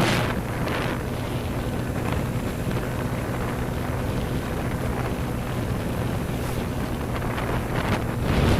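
Motorcycle engine running steadily at road speed, with wind rushing over the microphone; the noise swells briefly near the end.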